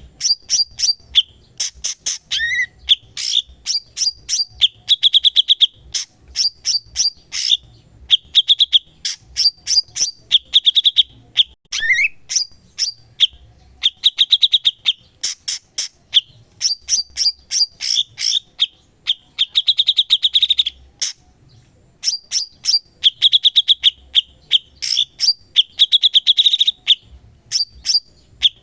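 A cucak cungkok bird singing vigorously and nonstop: quick phrases of sharp, rapid chattering notes in a high register, repeated one after another, with a brief pause a little past two-thirds of the way through.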